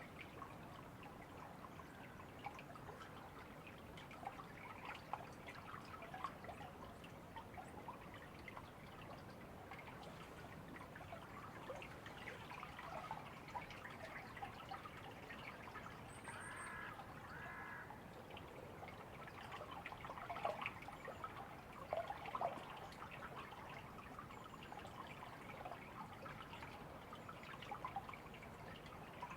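Small stream trickling, with a faint, steady run of little splashes. About halfway through, a bird gives two short calls.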